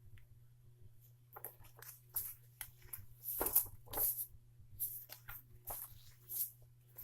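Paper posters being handled, rustling and crinkling in short irregular bursts, loudest about three and a half to four seconds in, over a steady low hum.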